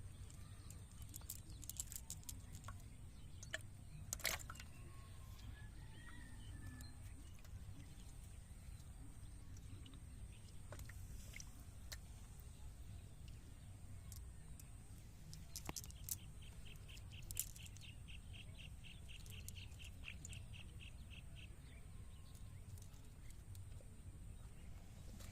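Quiet outdoor ambience with a low rumble, scattered small clicks and taps, and faint bird chirps. About sixteen seconds in, a rapid run of short chirps at about five a second lasts some five seconds.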